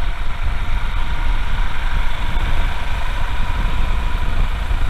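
Royal Enfield Himalayan's single-cylinder engine running at a steady cruising pace while being ridden, a steady low rumble.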